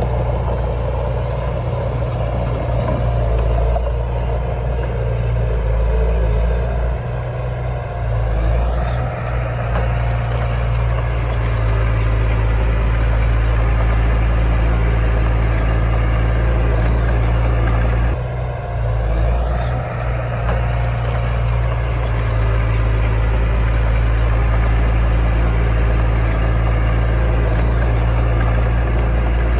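Komatsu D31 bulldozer's diesel engine running steadily. Its sound dips and climbs back twice, about a quarter of the way in and again past the middle.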